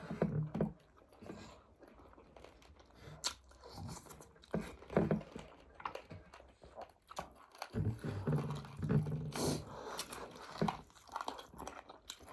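Close-up eating sounds: chewing and biting food, with scattered small clicks and knocks at an uneven pace.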